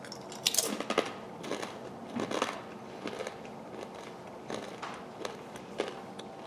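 A person biting into and chewing thin, flat, hard pretzel crackers (Snack Factory Pretzel Crisps): a string of sharp, irregular crunches, loudest in the first two and a half seconds, then thinning to fewer, quieter crackles.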